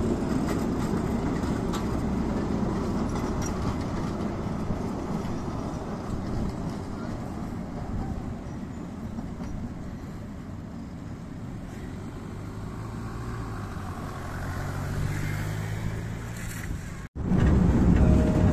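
A 600 mm narrow-gauge passenger train rolling past, its wheels and open coaches rumbling and fading as it pulls away, with a low engine hum rising later on. Near the end the sound cuts abruptly to the louder, closer rumble of riding aboard the moving train.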